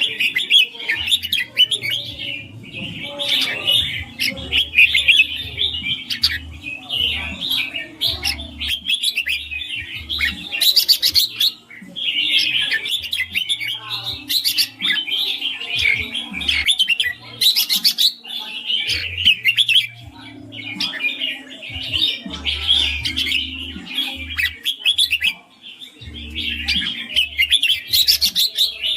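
Red-whiskered bulbul singing: a continuous run of rapid, clear chirping phrases with only brief pauses.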